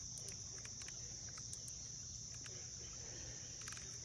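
Insects chirring as a steady, high-pitched chorus, with a few faint clicks over it.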